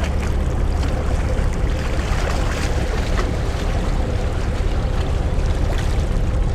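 Steady low rumble of the car ferry New Akashi under way, mixed with wind and rushing water, with a faint steady hum running through it.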